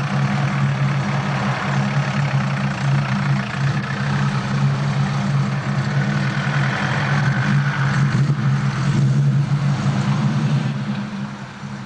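1985 Ford Capri 2.3-litre V6 idling steadily with a deep, even exhaust note through tubular headers and a modified rear silencer, becoming quieter near the end.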